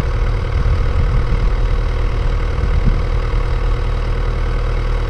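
Tractor engine idling steadily and loudly.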